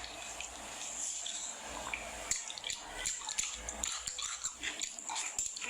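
Close-miked ASMR eating sounds: wet chewing and smacking of soft, fatty meat, made up of many short, sharp clicks.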